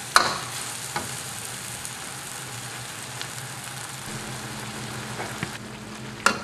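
Eel, onion and spaghetti stir-fry sizzling steadily in a wok, with a metal spatula knocking against the wok just after the start and again near the end. A low steady hum comes in about two-thirds of the way through.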